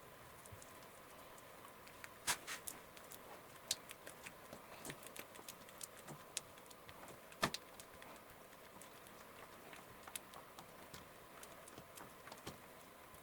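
Scattered light clicks and taps at irregular intervals, the loudest about two and seven seconds in, over a faint steady hum: small hard parts and tools being handled on a workbench.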